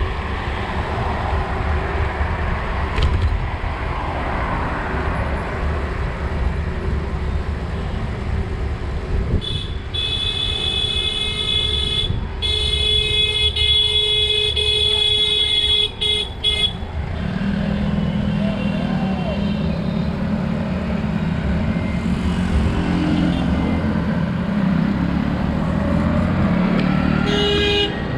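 City road traffic heard while cycling, with a steady low rumble of wind and road noise. A vehicle horn sounds in a long, twice-broken blast from about a third of the way in to past the middle, and once more briefly near the end, while a vehicle engine drones through the later part.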